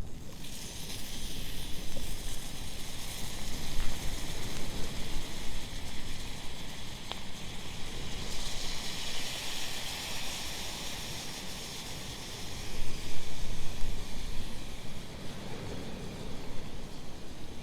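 Waves washing on a sandy beach, a steady rush of surf that swells twice, about halfway through and again a few seconds later.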